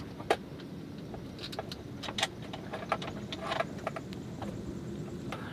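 Scattered sharp metallic clicks and clinks of hand tools and small parts being handled while a Honda generator's carburetor is taken apart and cleaned, over a steady low rumble. One click about a third of a second in is the loudest.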